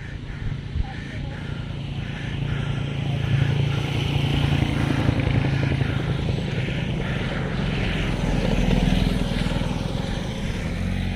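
Motorcycle engine running steadily while under way, with wind and road noise over it; its pitch rises a little past the middle.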